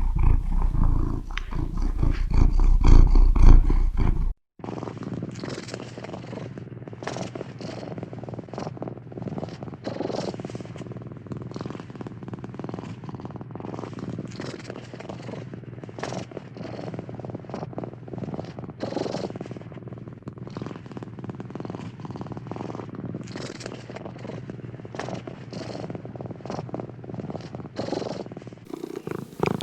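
A cat purring close to the microphone, a steady low rumble that swells with each breath in and out every couple of seconds. It opens with a louder, deeper rumble that cuts off abruptly about four seconds in.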